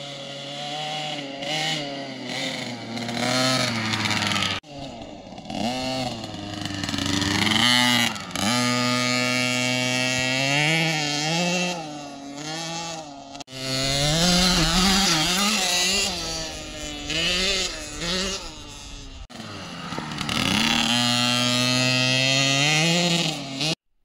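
Small 50–65cc dirt bike engine revving up and down as it is ridden round, its pitch rising and falling over and over. The sound breaks off abruptly three times and resumes at a different pitch, and cuts off just before the end.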